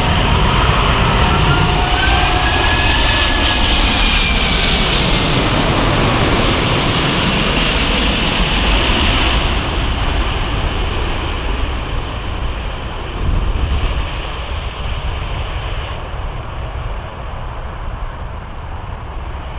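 Jet airliner passing low overhead on final approach to land. Its engine whine glides in pitch early on as it goes by, and the rumble then slowly fades away over the second half.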